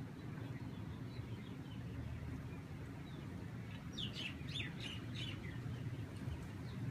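Birds chirping: a quick run of about six falling chirp notes about four seconds in, with fainter chirps before it, over a steady low rumble of wind.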